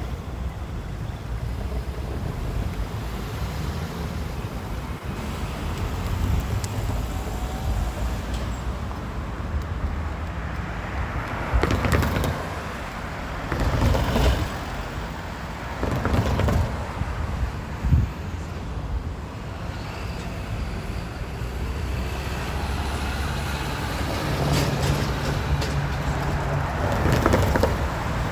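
Steady low vehicle rumble with traffic noise, rising in several short swells around the middle, with a single sharp knock among them. A steady low engine hum comes in briefly later on.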